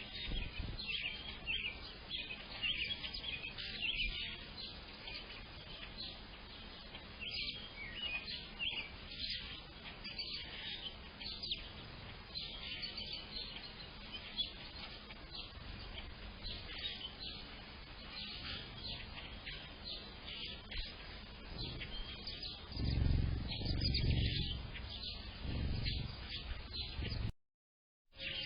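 Several backyard songbirds chirping and singing over one another, with many short high calls and trills. A few low rumbles come in about three-quarters of the way through, and the sound cuts out briefly just before the end.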